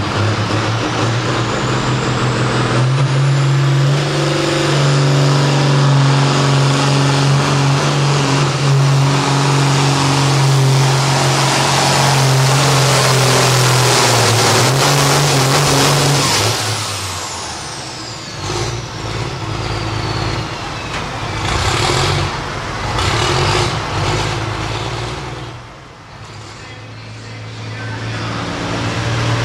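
Hot farm class diesel pulling tractor under full power: a loud, steady engine note with a high turbo whine climbing over the first few seconds. About sixteen seconds in, the throttle comes off and the turbo whine winds down, followed by a few short revs.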